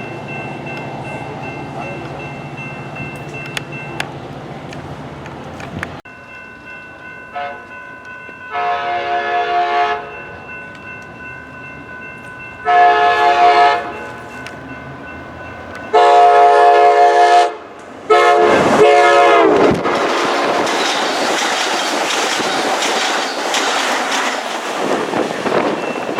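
Train horn sounding in four long blasts as a train approaches, the last blast dropping in pitch as the train passes, followed by the loud steady rush of the train's wheels on the rails going by at speed.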